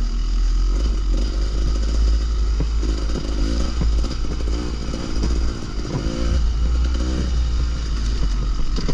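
Dirt bike engine running while riding, its pitch rising and falling with the throttle several times, over a heavy low wind rumble on the microphone.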